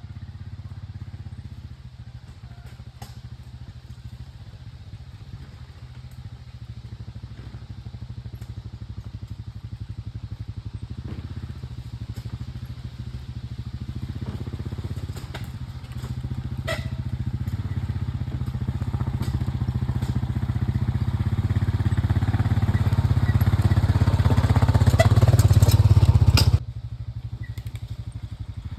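A small engine running steadily, growing louder over about twenty-five seconds, with scattered clicks and knocks on top; near the end the level drops suddenly and the engine sound carries on more quietly.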